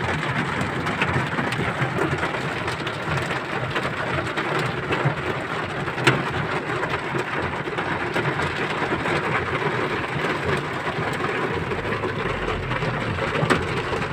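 Steady heavy rain hissing and drumming, with a few sharp drop hits, about six seconds in and again near the end.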